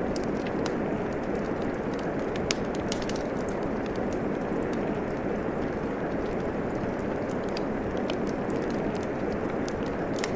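Steady rain hiss with a wood fire crackling, scattered sharp pops over the rain, one louder pop about two and a half seconds in.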